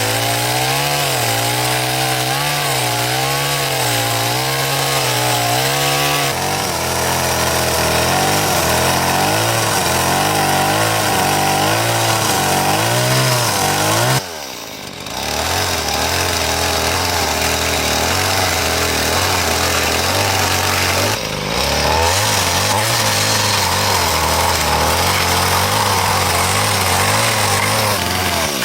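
Chainsaw running and cutting through timber, its engine pitch wavering under load. The level dips briefly about halfway through and again about three quarters through.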